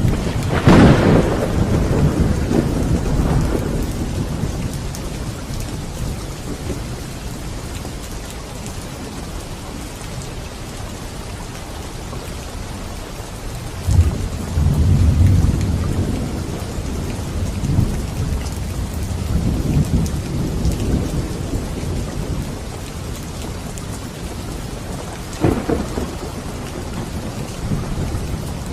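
Steady rain with thunder: a sharp crack about a second in that rolls off into rumbling, a long low rumble about halfway through, and another sharp clap near the end.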